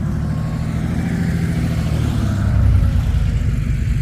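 A car engine running close by, its sound swelling to a peak just before three seconds in and then easing off, like a car driving past slowly.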